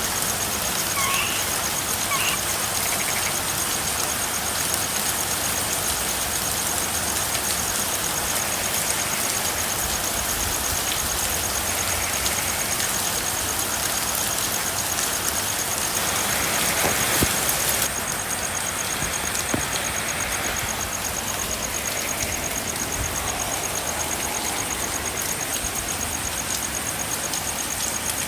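Steady rain, an even hiss, with a few short frog chirps in the first few seconds and a faint steady high-pitched tone. About seventeen seconds in the rain swells briefly, then drops off suddenly to a slightly quieter level.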